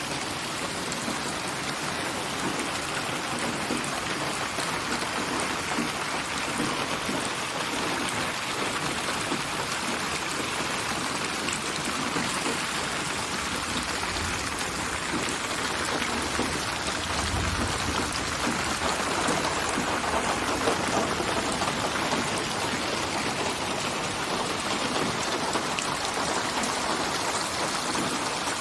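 Steady rain falling, many drops hitting surfaces. It is a computer-built rain ambience mixed from many recorded rain samples, with the drops placed and moved around the listener in 3D (8D/HRTF panning).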